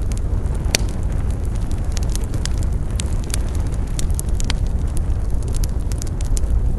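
Wood fire burning: frequent irregular sharp crackles and pops over a steady low rumble.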